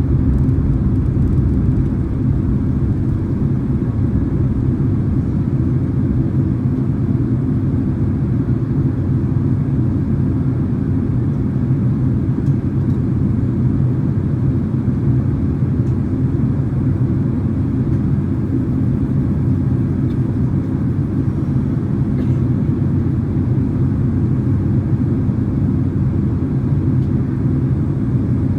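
Steady low rumble of a Boeing 767-300ER's engines and airflow, heard from inside the passenger cabin during the descent on approach.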